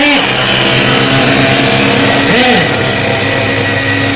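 Small nitro (glow-fuel) model engine of a radio-controlled buggy chassis running steadily with a constant drone, as the RC bus is driven. There is one brief rise and fall in pitch a little over halfway through.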